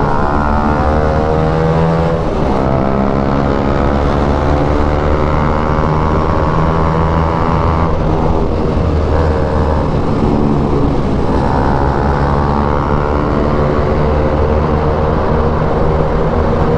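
Bajaj Pulsar NS200's single-cylinder engine accelerating hard under full throttle, its pitch climbing through each gear and dropping at the shifts, several times over.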